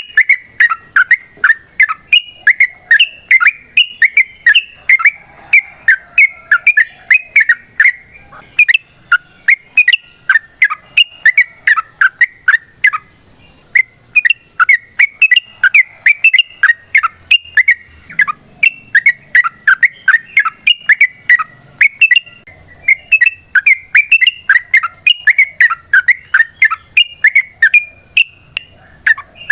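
Yellow-vented bulbul (trucukan) calling in a long, rapid chattering run of short sharp notes, about three a second, with a brief pause about 13 seconds in. A faint steady high whine sits behind it, dropping out between about 8 and 22 seconds.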